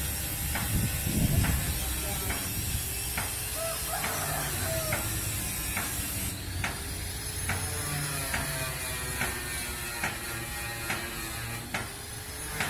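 Mechanical noise: sharp metallic clicks, roughly one or two a second, over a steady low machine rumble. A high hiss runs until about halfway through, then stops.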